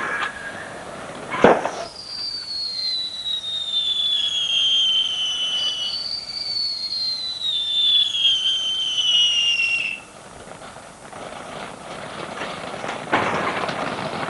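Fireworks going off: a sharp bang about a second and a half in, then two long whistles, each falling slowly in pitch over about four seconds, and a noisy rush near the end.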